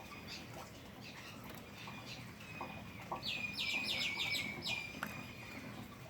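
A bird calling: a quick run of about six short falling notes, about three seconds in, over scattered light ticks of dripping rain.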